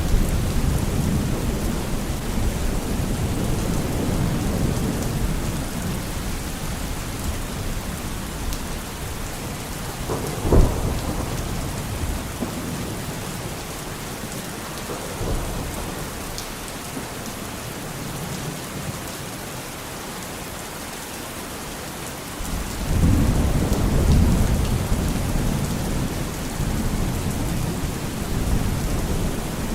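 Steady rain with thunder. A low rumble fades over the first several seconds, a sharp crack comes about a third of the way through, and a new loud rumble starts abruptly about three quarters of the way in.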